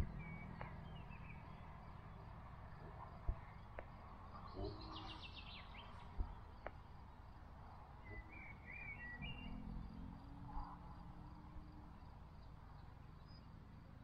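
Songbirds calling in a meadow: a few short chirps, a quick trill about a third of the way in, and more chirps later, over a low rumble, with a few sharp clicks.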